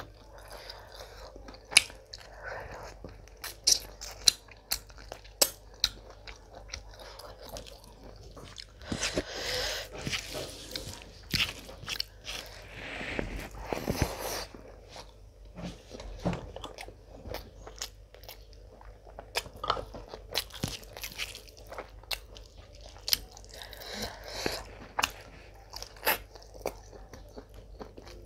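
Close-miked eating sounds of a person eating rice and mutton with her hands: chewing, wet mouth smacks and sharp crunchy clicks. A denser, busier stretch of chewing comes around the middle.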